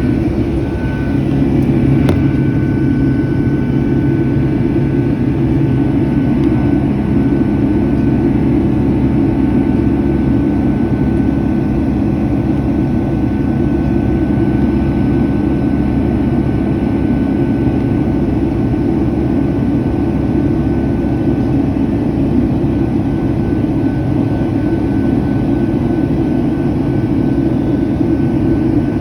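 Boeing 757 cabin noise: steady jet engine and airflow rumble, with a thin steady whine above it.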